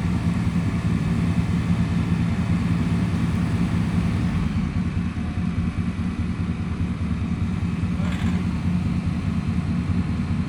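An engine running at a steady idle, a low even hum that holds unchanged throughout.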